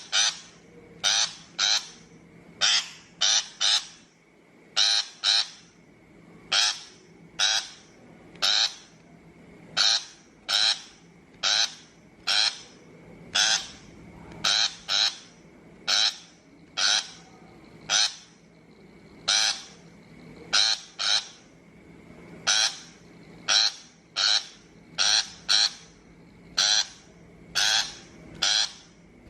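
A shrike giving harsh, scolding chattering calls, each short and repeated about twice a second, singly or in quick pairs. This is a looping recording of the kind played to lure shrikes into traps.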